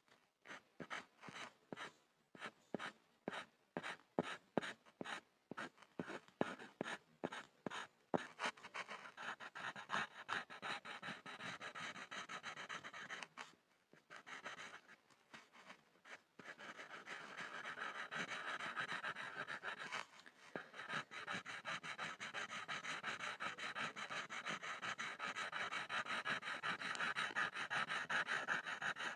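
Pencil scribbling on a board. For the first few seconds it makes separate strokes about twice a second, then it turns to fast, continuous back-and-forth scratching, broken by two short pauses.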